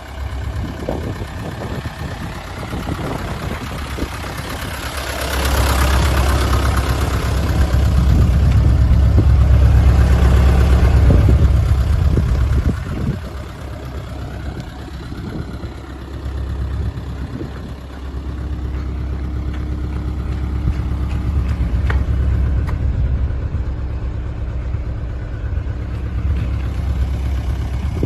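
1999 Mitsubishi Canter truck's 4D35 four-cylinder diesel engine running at idle, revved up and held higher for several seconds about a fifth of the way in, then dropping back to idle, with a milder rise in engine speed later on.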